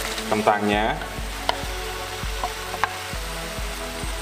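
Diced fried potatoes tipped from a bowl into a wok of frying chili spice paste, which sizzles steadily, with a couple of light clicks.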